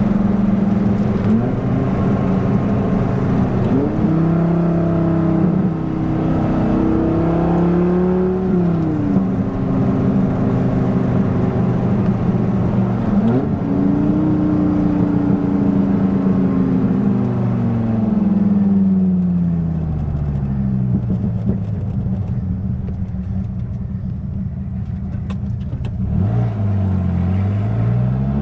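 1997 Dodge Viper GTS's 8.0-litre V10 engine and exhaust under way. Its pitch climbs and holds with throttle through the gears, winds down slowly on the overrun, then dips and climbs again near the end.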